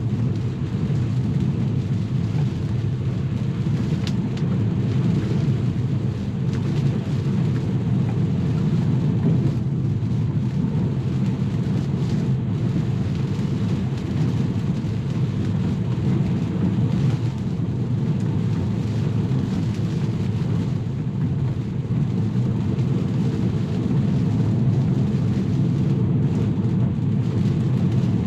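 Steady low rumble of an electric Tesla driving on a rain-wet road: tyre and road noise with rain on the car, running evenly with no engine note.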